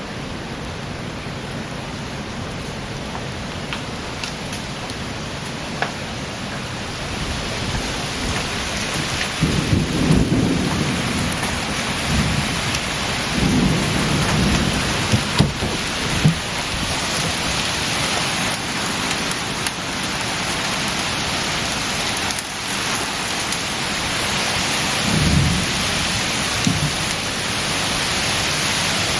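Steady heavy rain from a thunderstorm, with thunder rumbling three times: about ten seconds in, again a few seconds later, and once more near the end.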